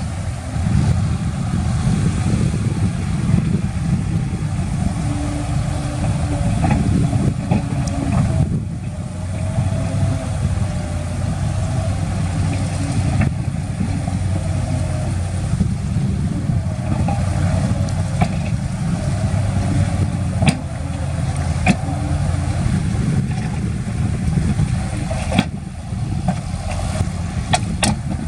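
Heavy diesel earthmoving machinery, a dump truck or bulldozer, running steadily with a wavering whine over its engine. A few sharp clanks come in the second half.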